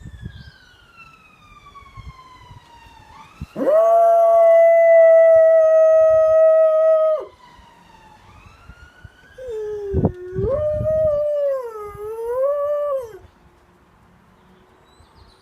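Dalmatian howling along with a siren: two long howls, the first held steady for about three and a half seconds, the second wavering up and down, over a faint wailing siren that rises and falls.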